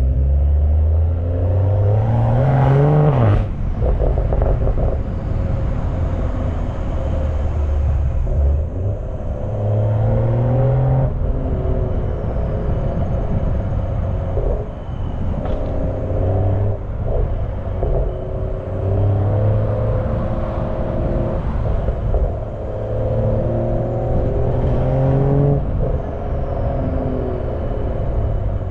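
BMW M340i's turbocharged B58 inline-six exhaust heard from the rear while driving: the revs climb steeply about two to three seconds in and drop sharply at a gear change, followed by several gentler pulls and lifts. Wind rushing over the microphone runs underneath.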